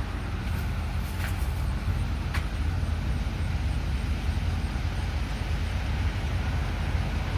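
Road traffic: a steady low rumble of vehicles running past, with a few brief sharp high sounds in the first couple of seconds.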